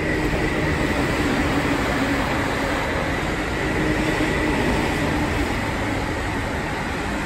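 Electric commuter train running past on the tracks below, a steady rushing rumble of wheels on rail with a faint steady whine.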